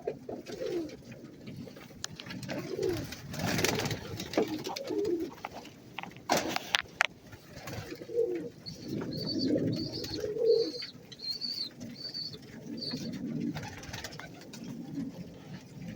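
Several pigeons cooing in a loft, with low repeated coos throughout. Two short rustling bursts come in the first half, and a run of short high chirps at about two a second follows in the middle.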